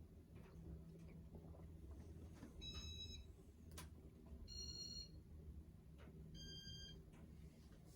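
Three faint electronic beeps at different pitches, each about half a second long and spaced a little under two seconds apart, over a low steady hum.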